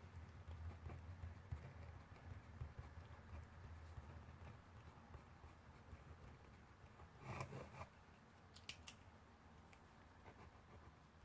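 Faint desk sounds of someone studying with pencil and paper, over a quiet room's low hum. There is a short rustle of paper about seven seconds in, followed by a few sharp little clicks.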